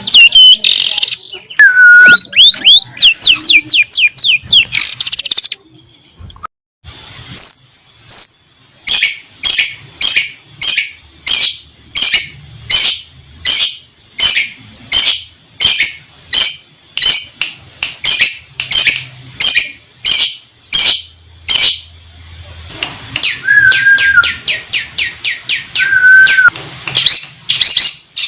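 Long-tailed shrike (cendet) song: high, sharp, rapidly swept notes in quick phrases, then a long run of evenly repeated sharp notes about two a second, ending in faster trilled phrases. It stops briefly about six seconds in.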